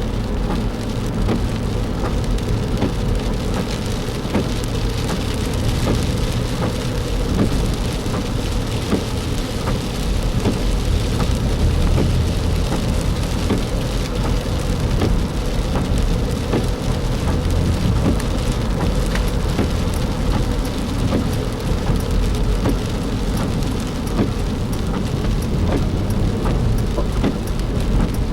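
Rain striking a moving car: many small drop hits over a steady low rumble of engine and tyres on a wet road.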